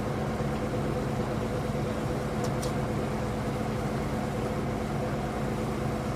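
Steady engine and road noise of a car driving along, with a low even hum.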